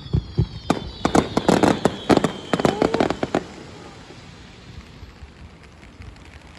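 A fireworks display: a rapid run of bangs and crackling shell bursts with a faint falling whistle, which stops after about three and a half seconds. A steady hiss of rain is left after it.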